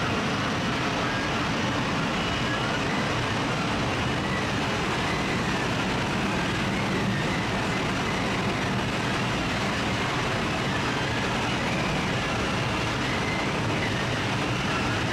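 Steady, even roar of heavy machinery, unchanging throughout, with a faint wavering whine high above it.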